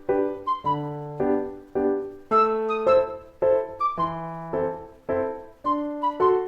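Background piano music: chords struck at a steady pace, each ringing and fading before the next.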